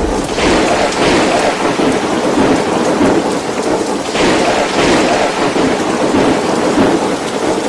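Violent storm with heavy rain: a loud, steady, dense rush that swells about half a second in and again about four seconds in.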